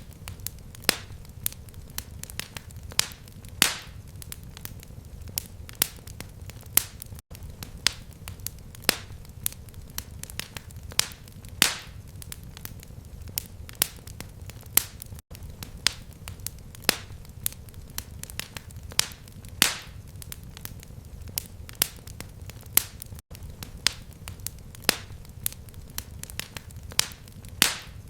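Fireplace fire crackling: irregular sharp pops and snaps, several a second, over a low steady rumble of the burning fire.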